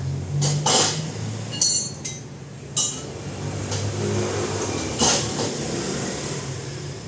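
Metal tools or parts clinking and knocking about six times, one clink ringing briefly, over a steady low hum.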